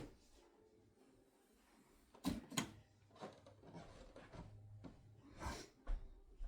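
A few short, light knocks and clatters of household objects being handled, two close together a couple of seconds in and another near the end.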